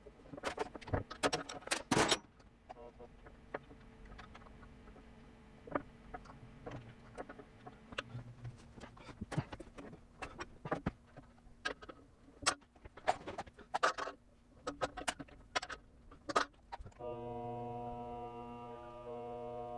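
Irregular metallic clanks, taps and clicks from a sheet-steel floor patch being handled and worked, over a faint steady hum. A few seconds before the end a steady droning tone with a low buzz starts up.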